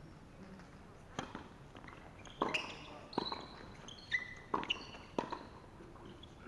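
Tennis rally: a run of sharp knocks as racquets strike the ball and the ball bounces on the court, about five in four seconds, with short high squeaks in between.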